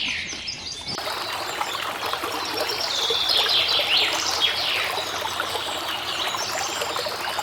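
Small birds chirping in repeated quick falling notes, with water trickling and splashing steadily from about a second in.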